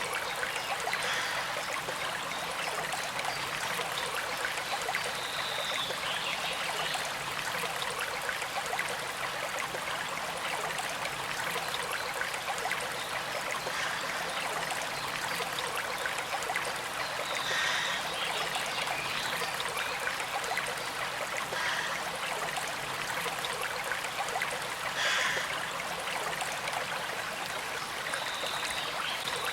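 Small creek flowing steadily, a gentle trickle of water over a constant rushing hiss.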